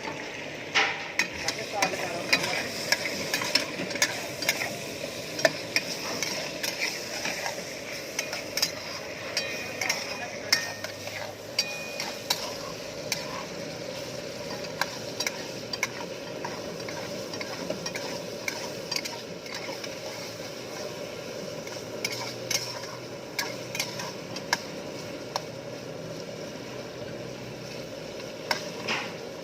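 Food sizzling in a hot pan while it is stirred, with a steady hiss of frying under frequent sharp clicks and knocks of the utensil against the pan. The knocking comes thick and fast in the first half and thins out later.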